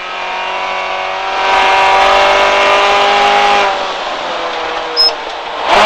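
Honda B16A four-cylinder engine of a rally Civic heard from inside the cabin, accelerating with its note climbing slowly and growing louder. About three and a half seconds in it eases off and runs quieter at a lower pitch, with road noise underneath.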